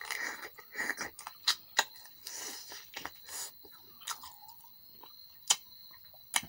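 Close-up chewing and wet mouth sounds of a person eating a spicy chicken drumstick by hand, with several sharp lip smacks.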